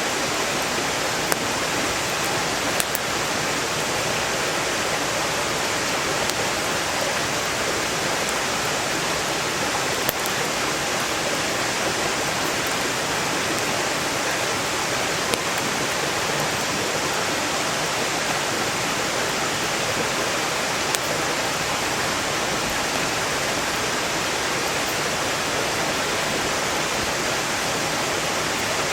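Mountain stream rushing steadily, with a few sharp pops from a burning wood campfire.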